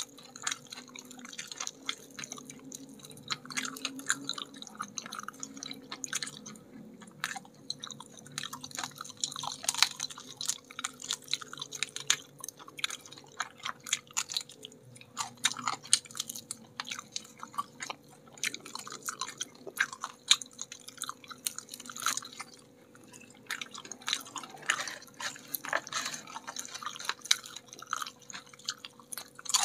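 Close-miked chewing and biting of crispy battered fried chicken wings by two people: a dense run of small crunches and wet mouth clicks, with a faint steady hum underneath.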